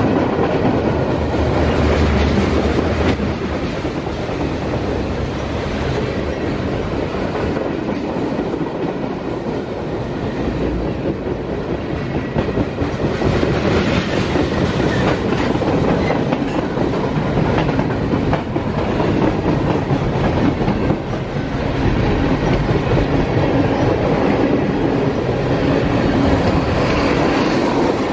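Freight cars of a mixed train rolling past: a steady rumble and clatter of steel wheels on the rails. For the first few seconds the drone of the mid-train diesel locomotive is heard fading as it moves away.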